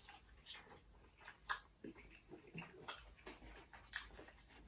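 Faint, irregular crunching and mouth sounds of someone chewing crispy fried chicken, with a few sharper crunches scattered through.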